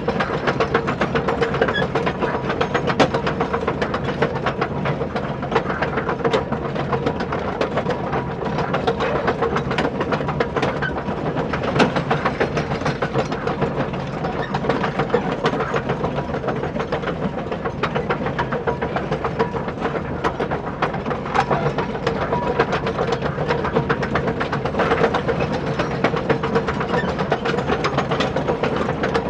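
Small electric motors and plastic gearboxes of a toy RC construction vehicle running steadily: a constant whine with rapid gear clatter.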